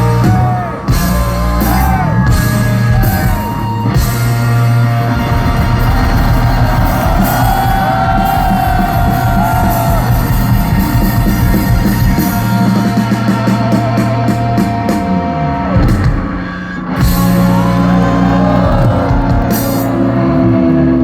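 Live rock band playing loudly, with sustained bass notes and guitar lines that bend in pitch, and a brief drop in level about two-thirds of the way through.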